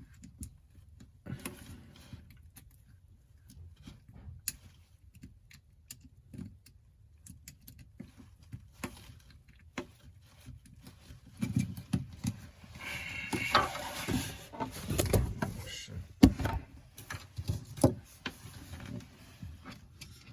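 Light clicks and taps of small phone parts and tools being handled on a workbench, scattered at first, then a busier stretch of knocking and rustling in the second half.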